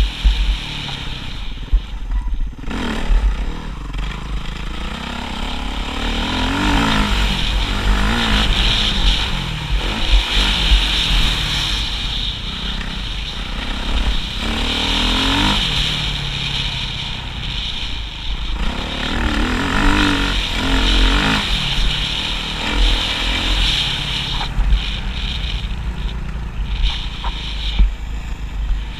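Motocross motorcycle engine revving up and falling off again and again, with a heavy low rumble underneath.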